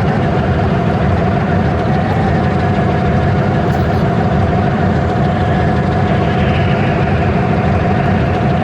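Train engine running steadily: a loud, unchanging low rumble with a steady mid-pitched tone over it.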